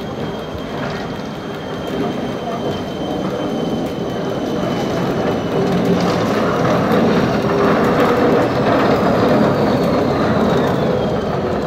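Schynige Platte Bahn He 2/2 electric rack locomotive running on the cog line, growing louder from about halfway through, with a thin high whine that slowly falls in pitch near the end.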